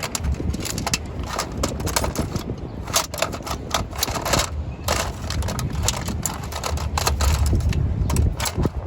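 Irregular clicking and clattering of hand tools and metal parts, as bolts go back in during reassembly, over a steady low rumble.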